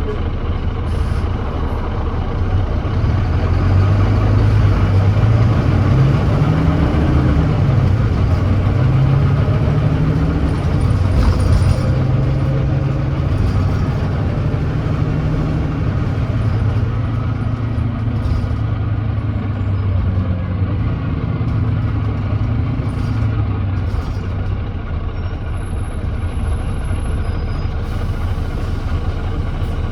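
Volvo D9B 9.3-litre six-cylinder diesel of a Volvo B9TL double-decker bus pulling hard under kickdown, heard from on board. The engine note climbs, drops at an automatic gear change by the ZF Ecolife gearbox about seven seconds in, climbs again, then holds and eases off in the second half. The bus is running with an exhaust leak.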